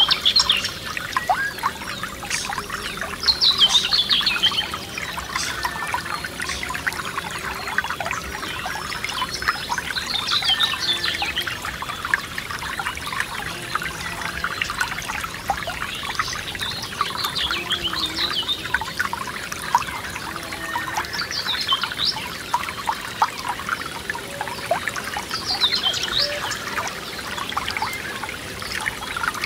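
Small forest stream trickling and splashing over stones, steady throughout, with a songbird singing short falling phrases every few seconds.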